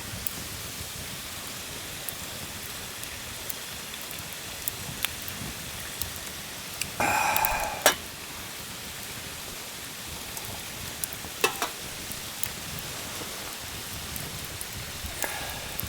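Food sizzling in a hot pan: a steady frying hiss with scattered small pops, and a louder, denser sizzle lasting about a second about halfway through that ends in a sharp click.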